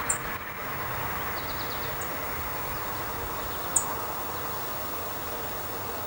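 Steady outdoor background hiss with a few short, very high, thin call notes from a small bird, spaced about two seconds apart, and a faint quick little trill about a second and a half in.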